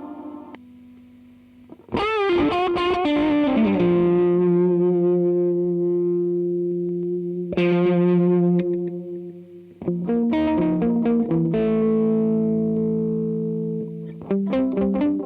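Electric guitar played through a reverb and delay pedal. Chords ring out with long, washy tails; the first chord, about two seconds in, wavers in pitch. Quicker picked notes start near the end.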